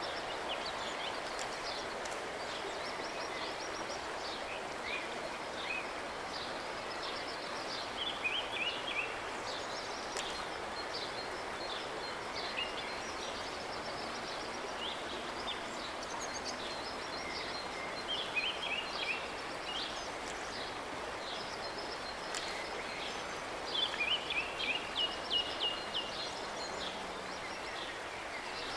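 Birds singing over a steady outdoor hiss, with short high chirps throughout and louder runs of chirps about 8, 18 and 24 seconds in.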